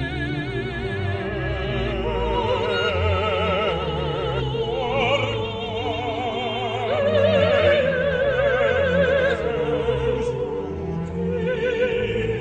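Operatic singing with a wide vibrato over an orchestral accompaniment; one long high held note swells to the loudest point about seven seconds in.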